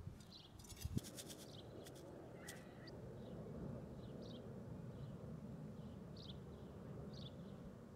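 Faint outdoor ambience: short high bird chirps recur every second or so over a low steady background noise. There are a few sharp clicks and a soft knock about a second in.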